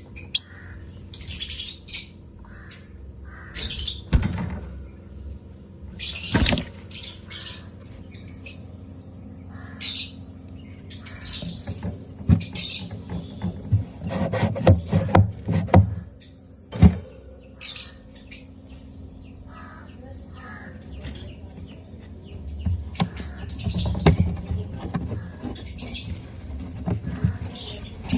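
Lovebirds chirping in short, shrill bursts again and again. Sharp clicks or taps are scattered among the calls, and a faint steady hum runs underneath.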